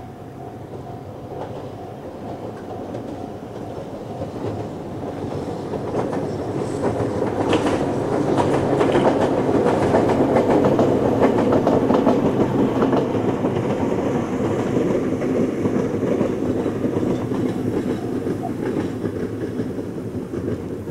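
Ohmi Railway electric train set passing by. It grows louder to a peak about eight to thirteen seconds in, where the wheels clack over the rail joints, then fades as it runs away.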